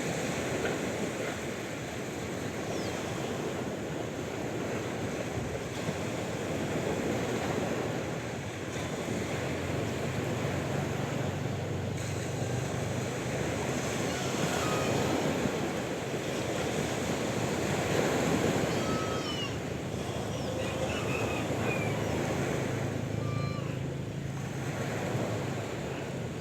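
Sea waves washing in, the surf swelling and easing every few seconds. In the second half a few short high chirps sound over it, with a low steady hum underneath.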